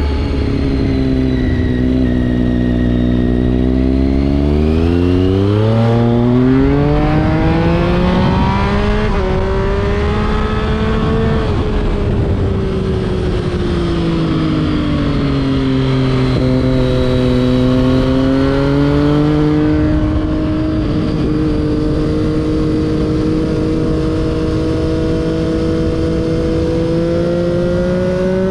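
A 2011 Triumph Street Triple 675's inline three-cylinder engine, breathing through an SC Project exhaust, heard from onboard with wind noise. The engine note climbs steeply under acceleration a few seconds in, falls away as the throttle is eased off near the middle, holds steady, then rises slowly again toward the end.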